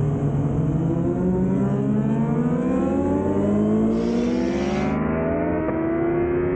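2005 Yamaha YZF-R6's inline-four engine through an aftermarket Laser exhaust, accelerating hard with its pitch rising steadily through the revs, with a short break near the end.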